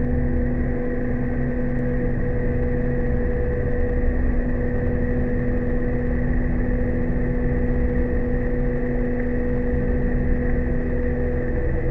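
Steamship's engines running steadily under test, a constant machinery hum with a low rumble and a few unchanging tones.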